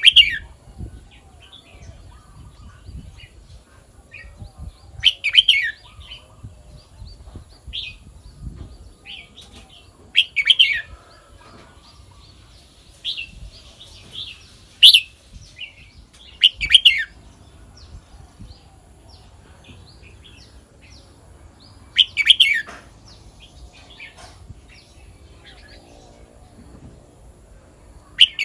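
Red-whiskered bulbul singing: short, loud whistled phrases every few seconds, with softer chirps in between.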